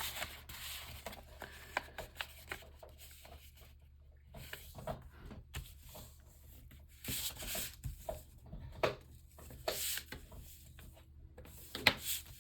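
A sheet of paper being folded and flattened by hand: rustling and short rubbing strokes as creases are pressed down, with a few louder crinkles.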